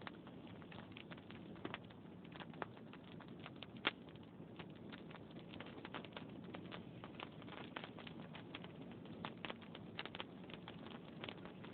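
Log fire crackling: irregular sharp pops and snaps over a faint steady rustle of flames, with one louder pop about four seconds in.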